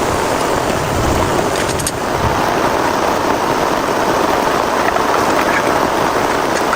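Heavy rain falling steadily, a dense, even downpour with a few faint drip ticks.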